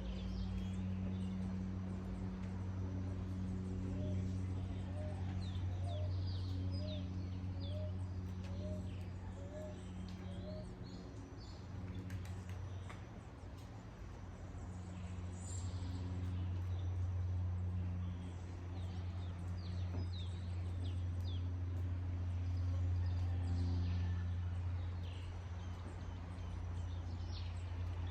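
Birds chirping and calling over a steady low hum and an even background hiss, with one short rising call repeated about one and a half times a second for several seconds in the first half.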